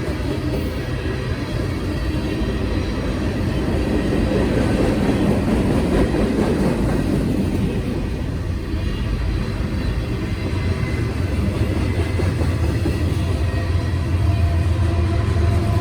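Freight train rolling past at close range: a steady rumble of cars on the rails.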